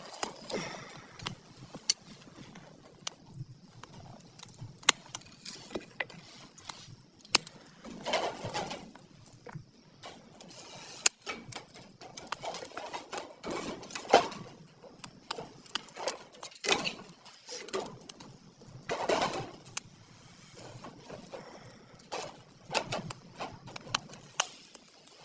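Wood campfire crackling, with frequent sharp pops. A few louder sounds, each under a second long, stand out among the pops.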